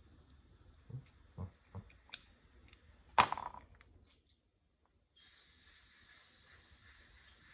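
Small metal carburetor parts and tools being handled on a workbench: a few light knocks, then one sharp metallic clank with a brief ring about three seconds in.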